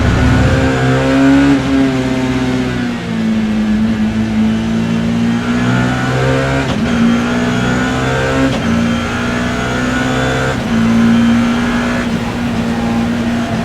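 BMW E30 M3's four-cylinder S14 racing engine, heard from inside the car at race pace. The revs climb repeatedly and drop back at several gear changes.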